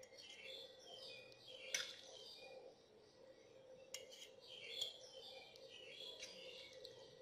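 Faint chirping of small birds, many short high chirps, with a couple of sharp clicks about two and four seconds in.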